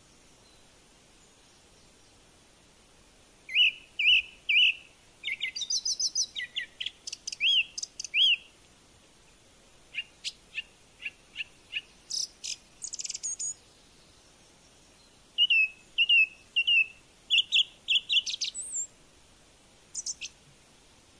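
A bird chirping in phrases of quick, high, sharp notes, separated by pauses of a second or more. The phrases start about 3.5 seconds in, again near 10 seconds, near 15 seconds, and briefly near the end.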